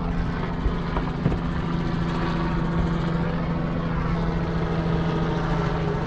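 A steady engine drone with a low hum and several higher tones held throughout. The higher tones shift slightly in pitch around the middle.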